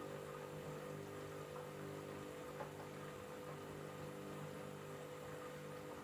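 Candy washing machine running, a steady motor hum with a few fixed tones, and one faint click about two and a half seconds in.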